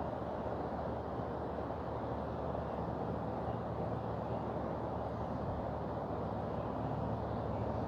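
Mountain river rushing: a steady, unbroken water noise with a low rumble underneath.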